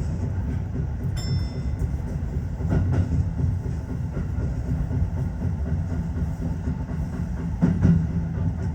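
Tokyo Metro 15000 series electric train running at speed, a steady low rumble of wheels on rail. A brief high ringing tone comes about a second in, and a short louder low tone near the end.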